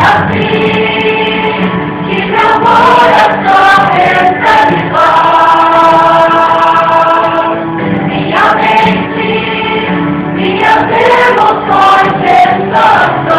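Choir singing a Christian gospel song with accompaniment.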